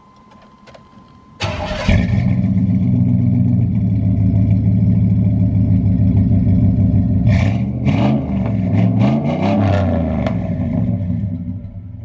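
Exhaust of a 1996 GMC Sierra pickup fitted with a Flowmaster muffler: the engine starts about a second and a half in and settles into a loud, steady idle, with a brief rise and fall in pitch from light revving a little past the middle.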